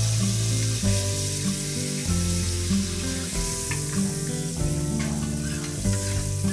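Kobe beef steaks sizzling on a teppanyaki griddle, with a metal spatula scraping across the plate now and then. Background music with a bass line plays underneath.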